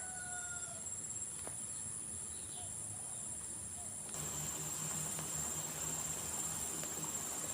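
A steady, high-pitched chorus of insects, such as crickets, singing continuously in the fields. About four seconds in it abruptly gets louder and fuller.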